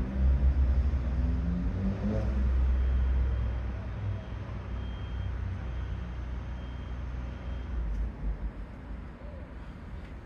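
Low engine rumble of road traffic, loudest in the first few seconds and fading away.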